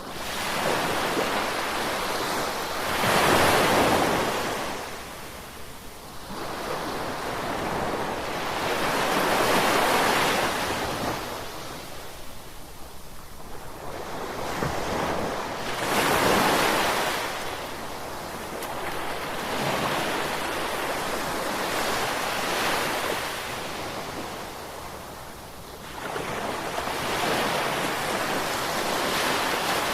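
Ocean waves breaking on the shore: a steady rush of surf that swells and falls back about every six seconds.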